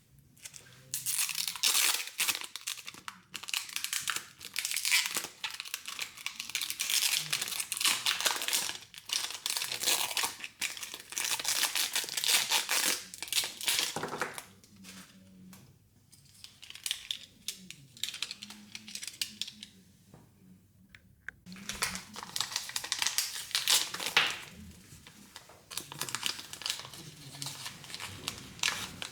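Plastic wrapping of a Mini Brands surprise ball crinkling and tearing as it is peeled open by hand, in bursts with short pauses, the longest burst at the start.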